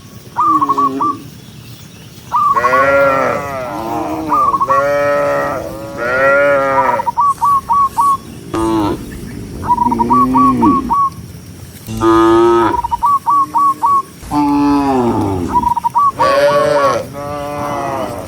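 A herd of cattle mooing, one long call after another, often overlapping. Between the moos come runs of four or five short, quick high notes.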